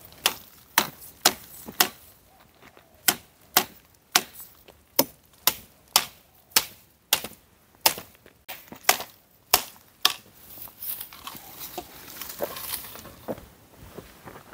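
Dry, hard wood being chopped by hand: a run of sharp strikes about two a second with a short pause, then they stop about ten seconds in, leaving softer rustling.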